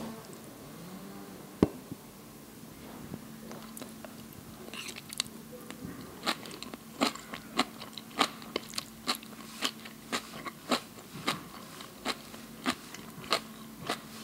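Crunchy chewing of green pepper strips close to a microphone, crisp crunches coming about twice a second from about five seconds in, after a single sharp click early on.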